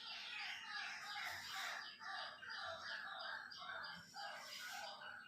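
Faint bird calls, short notes repeated a few times a second.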